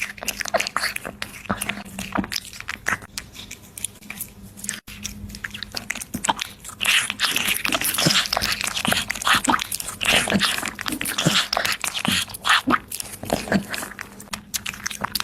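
A small pet eating, with rapid, irregular crunchy chewing and biting sounds that get busier about halfway through.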